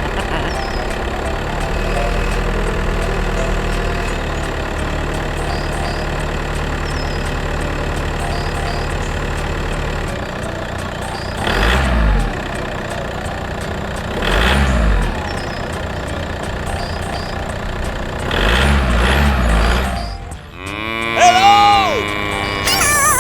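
Mini tractor's small engine running steadily, then revving up three times. Near the end comes a pitched call that bends up and down.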